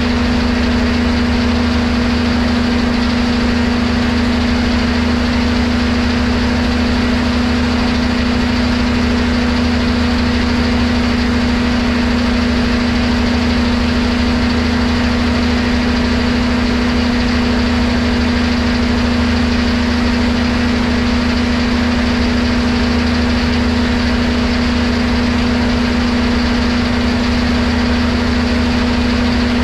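Sawmill-type machinery running steadily at an even speed with a strong, constant hum and no change in load.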